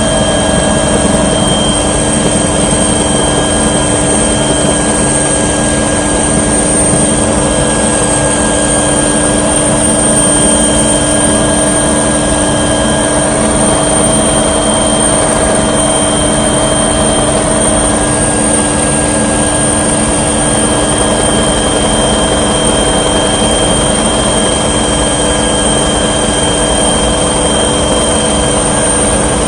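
Steady drone of an aircraft's engine heard from on board in flight, with several unchanging whining tones over a constant rumble.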